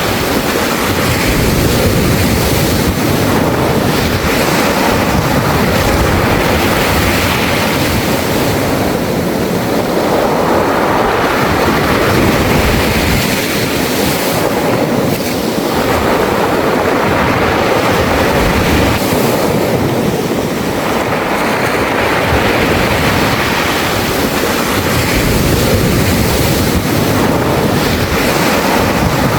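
Sea waves washing over a beach of round pebbles, the stones rattling in the surf. The sound comes in surges that swell and ease every few seconds.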